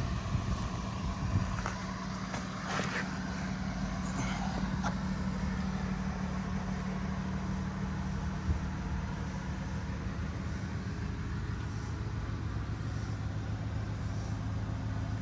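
Ford 6.7 L Power Stroke V8 turbo-diesel idling steadily, with a few light knocks in the first few seconds.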